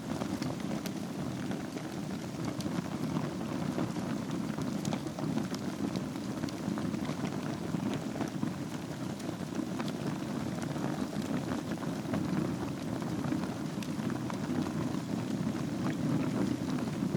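Wood fire burning in a fireplace over glowing embers: a steady low rush of flame with small scattered crackles and pops.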